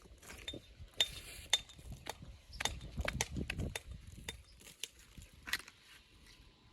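Walling stones clacking and clinking against each other as they are handled and set on a dry stone wall: irregular sharp knocks, with a low rumble of shifting stone about three seconds in.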